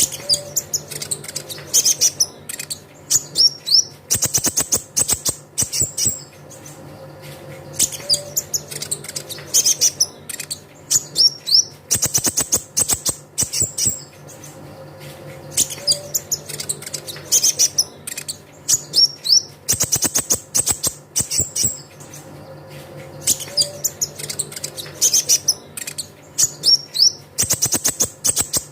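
Kolibri ninja sunbird song: high, thin chirps and rapid trills, with a dense burst of fast notes returning about every eight seconds, as a looped lure recording does. A faint steady hum runs underneath.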